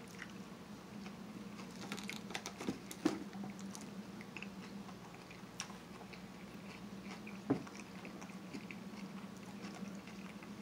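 Close-miked chewing of a mouthful of seafood salad, with soft wet mouth sounds and a few small crunches and clicks, the sharpest about three seconds in and again about seven and a half seconds in. A steady low hum runs underneath.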